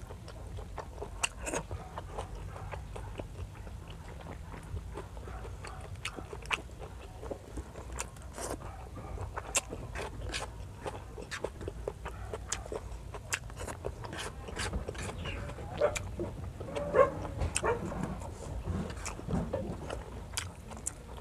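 Close-miked chewing and wet mouth smacking from eating by hand, with many sharp, irregular clicks throughout.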